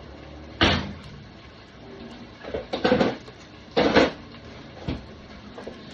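Kitchen clatter: a handful of knocks and clanks from handling cookware, utensils or cupboard doors, the loudest a few seconds in.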